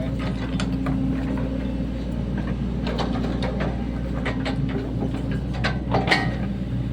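Sany SY75 mini excavator's diesel engine running steadily as it digs. Scattered metallic clanks and knocks come from the bucket and working arm, with a few sharper ones near the end.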